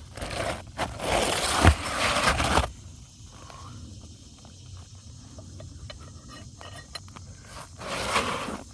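Brittle asphalt roof shingle scraped and pried with a roofing hatchet: a loud gritty scrape for the first couple of seconds, then quieter scattered clicks and crackles.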